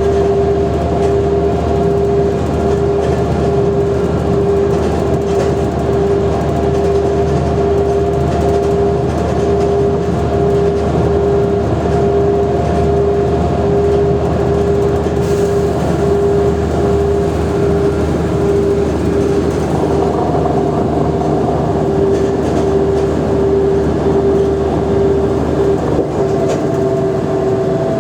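Mercedes-Benz O345G articulated bus running under way: a steady drivetrain whine held at one pitch over a continuous rumble, the pitch and rumble changing slightly about twenty seconds in.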